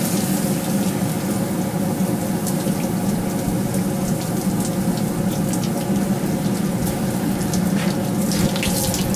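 Forge-shop machinery running steadily: a continuous hissing roar over a low hum, with a few faint ticks.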